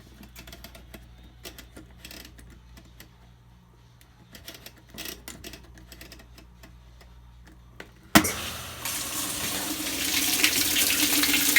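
Faint, irregular clicks for about eight seconds. Then, with a sudden onset, water rushes into the drum of a top-load Roper washing machine through its newly replaced water inlet valve, a loud steady hiss that grows louder over the next two seconds: the new valve is opening and the machine is filling.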